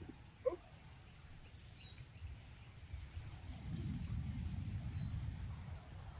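A songbird repeats a short, high, downward-slurred call about every three seconds over outdoor ambience. A brief loud squeak comes about half a second in, and a low rumbling noise rises from about three and a half seconds in.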